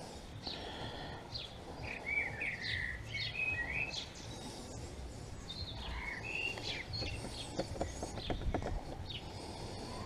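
Small birds singing in short bursts of quick, curling chirps that rise and fall, over a low steady background rumble. A few light clicks come about three-quarters of the way through.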